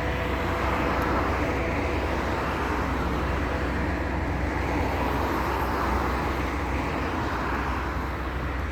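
Steady low rumbling drone with a hum underneath, swelling and fading irregularly every couple of seconds: the unexplained 'strange sky noise'.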